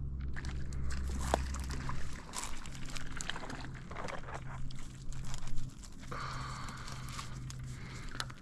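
Irregular splashing, rustling and clicking as a small rainbow trout is brought in and handled on the line.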